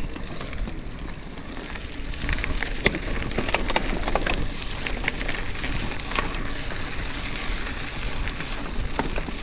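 Bicycle riding over rough ground: a steady rushing noise with many scattered sharp clicks and crackles.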